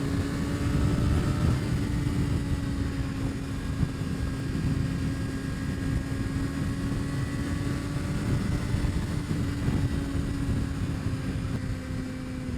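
A 2025 Kawasaki ZX6R's 636 cc inline-four running at a steady cruise, holding one even pitch that eases off slightly near the end, under heavy wind rush.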